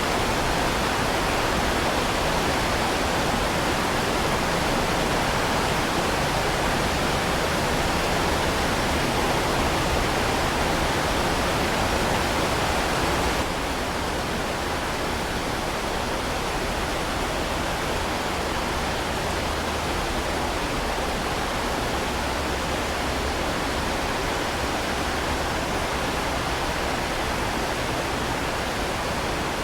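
Heavy rain falling in a steady, dense hiss. It steps down slightly in level about 13 seconds in.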